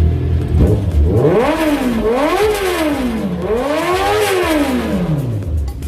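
Honda CB650R's inline-four engine being revved three times, the pitch sweeping up and dropping back each time, the last rev held longest and falling away near the end. The bike has just been ECU-tuned.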